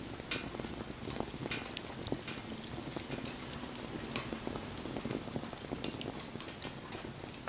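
Campfire burning, crackling with frequent small pops over a low, steady hiss, and one sharper pop a little under two seconds in.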